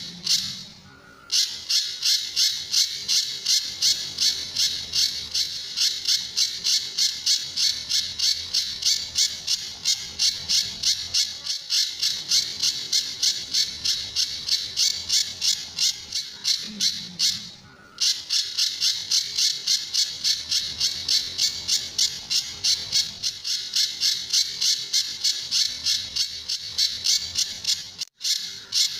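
Pijantur songbird singing a long run of sharp, high repeated notes, about three a second, the rapid 'tembakan' phrases it is kept for. The run breaks off briefly about a second in and again about two-thirds through, then carries straight on.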